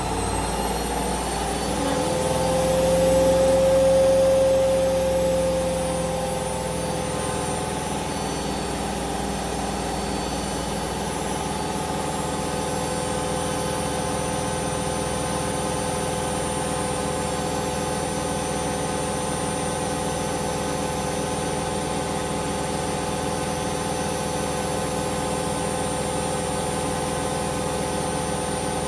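Hoover Vision Dynamic washing machine spinning: the drum motor's whine rises in pitch over the first few seconds, swells, then holds steady at high spin speed.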